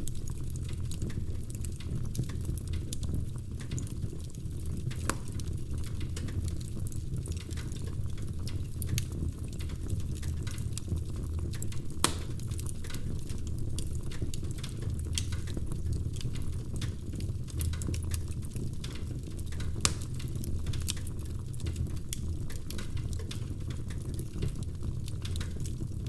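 Wood fire in a fireplace crackling: irregular sharp pops and snaps over a steady low rumble of the flames, with a louder pop about twelve seconds in and another about twenty seconds in.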